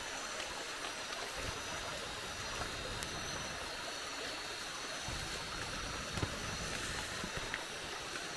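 Steady hiss of rain falling in the forest at night, with constant high-pitched insect tones over it and a few faint clicks.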